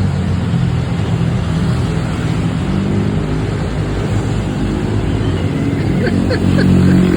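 Motor vehicle engine running steadily, a continuous low hum.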